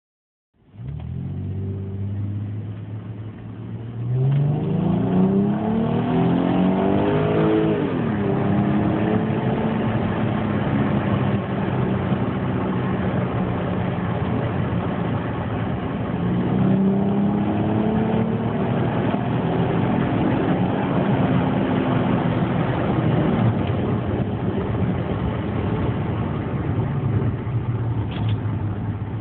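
Audi A4 3.0 V6 engine heard from inside the cabin: running steadily, then accelerating hard about four seconds in, its note rising until a gearchange drops it near eight seconds. It pulls on steadily after that, with another rise in pitch around seventeen seconds.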